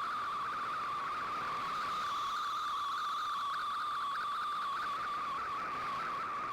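MFSK digital-mode data signal from a shortwave broadcast, heard through a communications receiver: a rapid warble of tones hopping within a narrow band, over steady static hiss.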